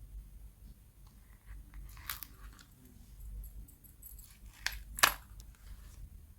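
Paper and stationery being handled on a journal: soft crinkling and crackling, with a few sharper crackles, the loudest about five seconds in.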